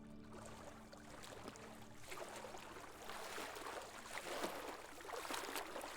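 Faint stream water trickling and gurgling, growing louder, as a held music chord fades out over the first couple of seconds.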